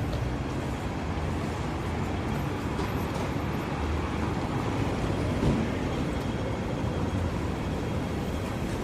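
Steady outdoor street ambience with road traffic running, with a small swell about five and a half seconds in.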